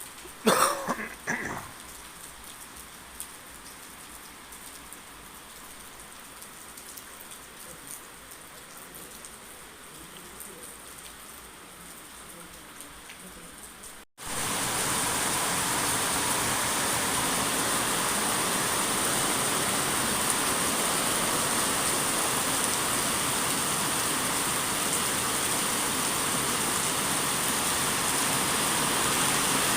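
Steady rain, light at first with a few brief louder sounds near the start. Halfway through it switches abruptly to much heavier rain.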